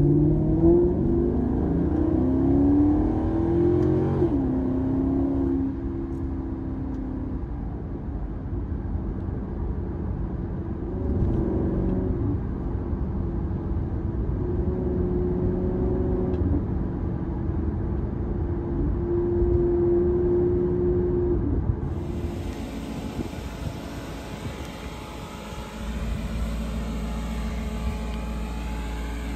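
Maserati GranTurismo MC's V8 heard inside the cabin, accelerating with rising revs and an upshift about four seconds in, then pulling steadily at cruise with a few swells in revs. Near the end the sound changes to outside the car, with a steady low engine rumble.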